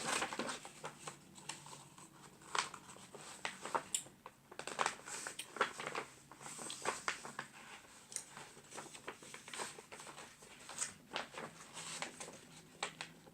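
A sheet of paper rustling and crinkling in irregular strokes as it is folded and creased by hand into a paper airplane.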